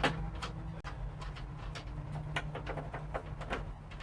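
Socket wrench clicking in short, uneven strokes while the 9/16-inch roof bolts are being undone, over a steady low hum.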